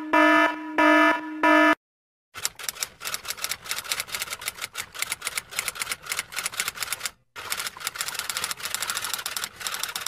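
An alarm beeping three times in quick pitched pulses, then, after a short gap, typewriter keys clacking rapidly, with a brief pause about seven seconds in.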